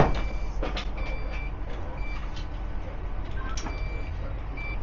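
Steady low rumble inside a train carriage, opened by one loud sharp knock. Short high electronic beeps come at irregular intervals over the top.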